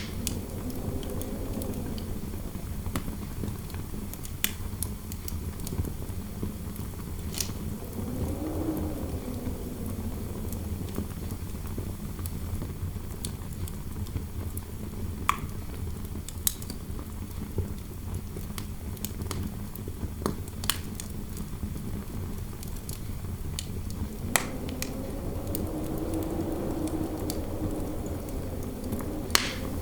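Fireplace crackling, with scattered sharp pops over a steady low rumble. Interior wind howls through it, rising then falling in pitch, about eight seconds in and again from about twenty-four seconds to the end.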